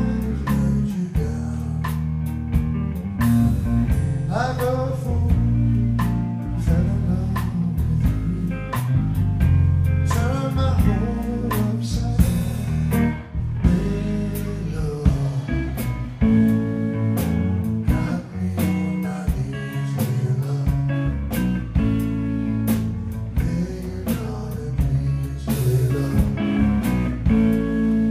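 Live rock trio playing: electric guitar lead with gliding, sliding notes over bass guitar and a steady drum beat.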